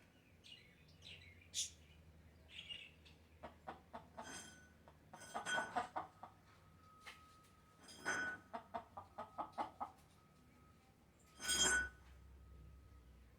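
Chickens clucking in short runs of quick calls, with one louder call near the end.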